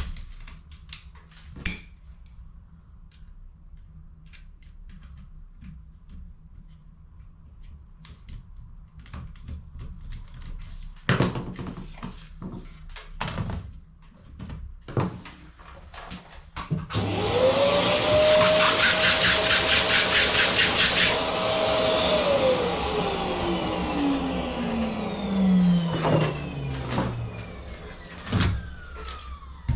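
Small electric vacuum cleaner motor switching on with a steady whine, running about five seconds, then switched off and winding down with a falling whine. Before it come scattered clicks and knocks of plastic cartridge parts being handled.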